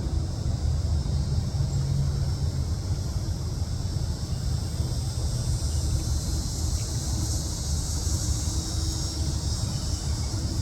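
Steady outdoor background: a continuous low rumble with a steady high-pitched hiss over it, and no clear bird calls or drumming.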